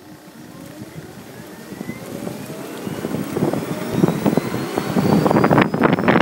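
Electric car's drive motor whining, rising steadily in pitch as the car pulls away and gains speed. From about three seconds in, wind and road noise grow louder and buffet the microphone.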